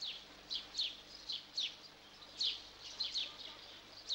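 Small birds chirping: short, high chirps, each dropping quickly in pitch, two or three a second, fairly faint.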